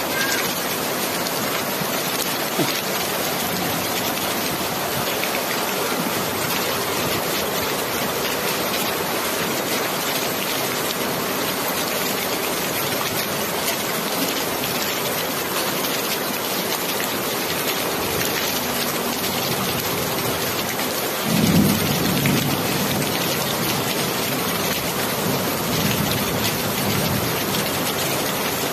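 Steady heavy rain falling, with a low rumble of thunder rolling in about three quarters of the way through and a fainter one shortly after.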